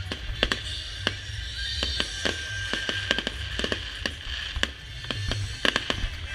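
Display fireworks going off in rapid, irregular sharp bangs and crackles, with music playing underneath.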